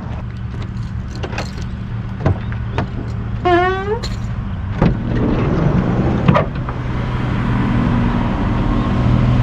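Car engine running steadily, with scattered clicks and knocks and a brief rising whine about three and a half seconds in; about seven seconds in the engine sound grows louder and changes pitch.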